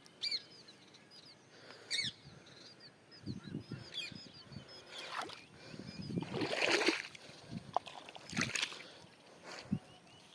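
Small birds chirping in short, quick calls, with several rough noisy bursts in between, the loudest about six to seven seconds in.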